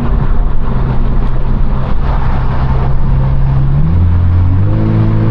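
Straight-piped BMW 428i's turbocharged four-cylinder exhaust droning loudly at a steady cruise, heard from inside the car; about four seconds in its note drops suddenly to a lower pitch and holds there.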